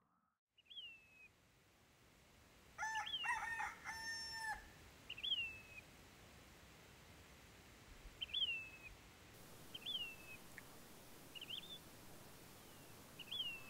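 Birds calling in open desert: a short whistled note that rises then drops, repeated every one to three seconds, with a louder run of several held, ringing notes about three seconds in.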